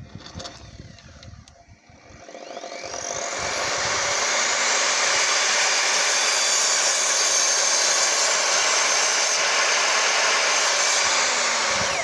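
Evolution R255SMS multi-material miter saw starting about two seconds in, its motor spinning up with a rising whine, then running steadily and loudly through a cut in pallet wood, and winding down in falling pitch at the very end.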